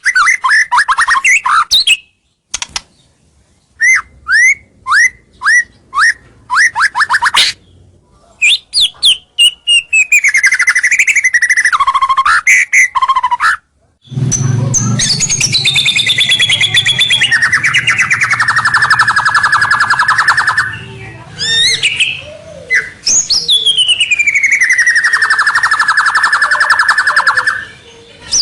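White-rumped shama song of the kind used as a lure call to draw rival males in. It opens with a fast series of short, upslurred chirps and whistles. From about halfway it shifts to long, buzzy, rattling phrases that slide downward in pitch.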